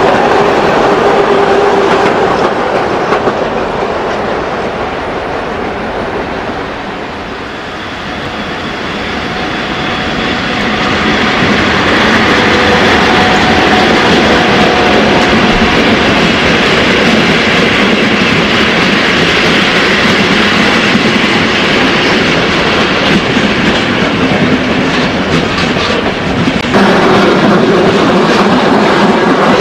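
Passenger trains rolling past close by on the rails, wheels running over the track. The sound dips in the first seconds, then builds again as a train of silver-sided coaches passes. Near the end an electric locomotive passes with a steady low hum.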